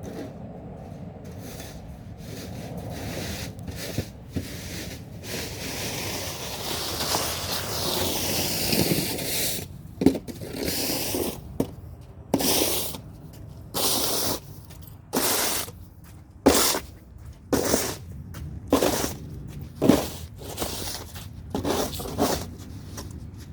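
Snow shovel scraping wet, slushy snow along a sidewalk: first a long push that grows louder, then short strokes about one a second, several starting with a sharp knock of the blade on the pavement.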